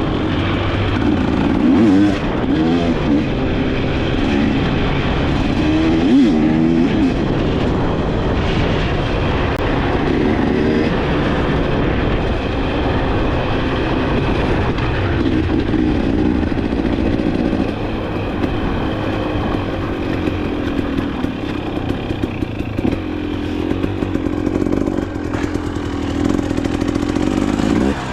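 Dirt bike engine running continuously, its revs rising and falling as it is ridden off-road.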